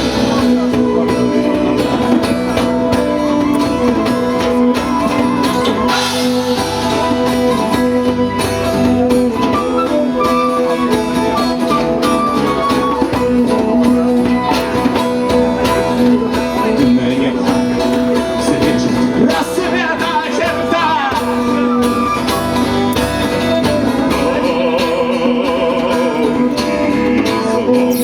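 Live band music with singing and plucked strings over a steady held low note.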